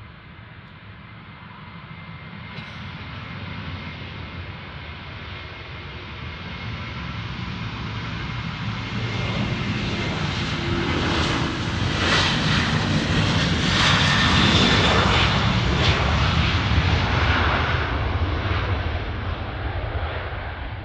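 Boeing 737-800's twin CFM56 turbofan jet engines at takeoff power as the airliner departs. The roar builds steadily, peaks about two-thirds of the way through as it passes closest, then begins to fade.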